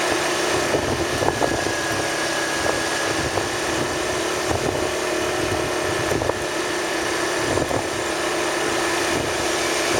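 Vehicle engine running steadily under a wash of road and wind noise, with a few faint clicks.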